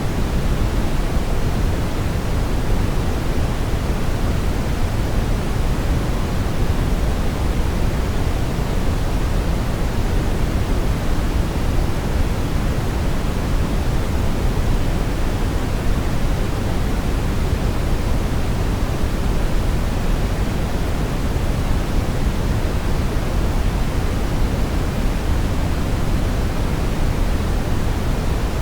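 Steady, unbroken brown noise: a deep, even rushing hiss, strongest in the low end, with no tones or changes.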